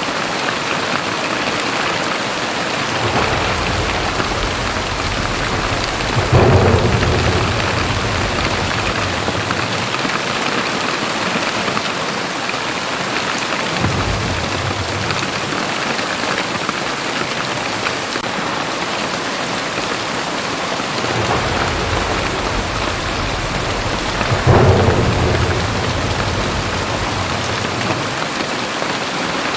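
Heavy rain pouring steadily, with deep rumbles of thunder swelling and fading twice, peaking about six seconds in and again near the end, and a brief low rumble midway.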